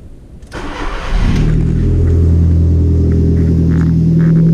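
Volkswagen Gol engine started: a brief crank, catching about a second in, then running at a loud, steady idle with its holed exhaust removed.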